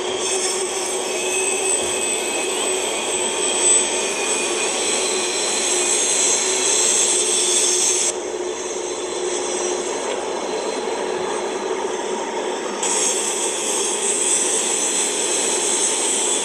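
Freight train cars rolling past on the rails: a steady rumble and hiss of steel wheels on track. The sound changes abruptly twice partway through where the recording is cut.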